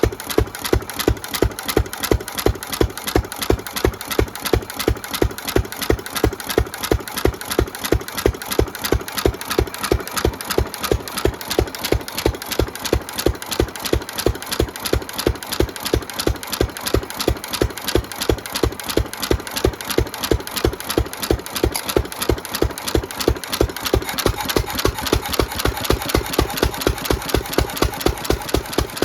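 1917 Fairbanks 3 HP single-cylinder throttle-governed stationary engine running steadily with an even, regular beat. It is running on a newly fitted original carburetor, with new rings and valve train still breaking in.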